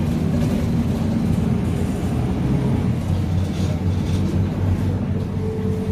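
Diesel engine of a Scania K310UA articulated bus running with a steady low drone; a higher steady tone joins near the end.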